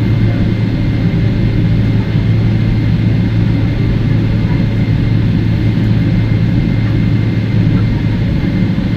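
Steady cabin noise inside a Boeing 777-300ER taxiing, with its GE90 jet engines at idle: a constant low hum with a faint, thin high tone above it.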